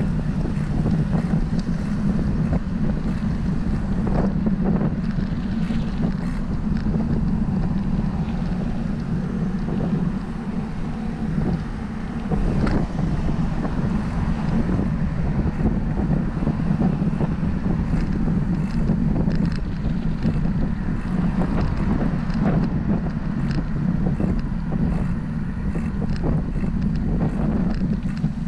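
Wind rumbling steadily on the microphone of a camera carried on a moving bicycle, with scattered faint clicks and rattles.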